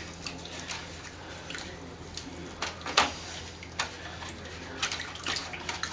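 Scattered light clicks and taps from handling at a workbench, the sharpest about three seconds in, over a steady low hum.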